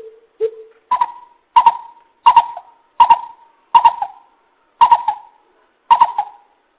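Greater coucal giving its deep hooting call, a lure recording used to draw in wild coucals. A series of about nine evenly spaced hoots: the first three lower, then the rest stepping up in pitch.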